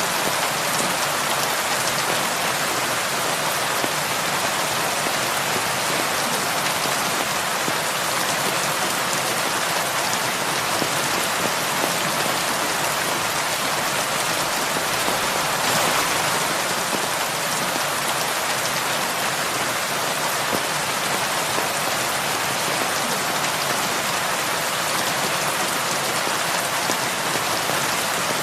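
Heavy rain falling steadily, an even hiss of drops on surfaces, swelling slightly about halfway through.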